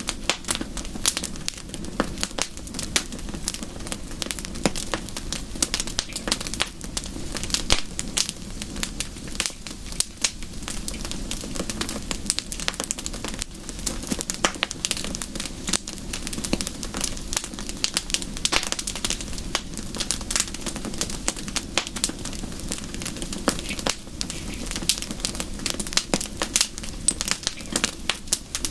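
Wood fire in a fireplace crackling: dense, irregular pops and snaps over a steady low rustle.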